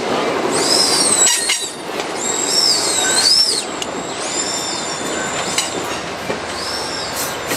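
Train cars rolling past with their wheels squealing on the rail: a steady rumble under high-pitched squeals that rise and fall, recurring several times.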